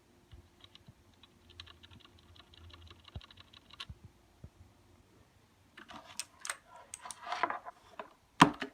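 Typing on an Aukey KM-G6 mechanical keyboard: a quick run of light key clicks, then a few seconds later louder, scattered key strikes and clatter, ending in one sharp knock, the loudest sound.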